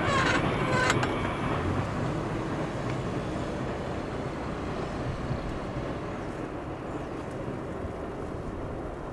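E231-series electric commuter train pulling away past a level crossing: a few sharp clanks about half a second apart stop in the first second, then the rumble of the train fades steadily as it recedes.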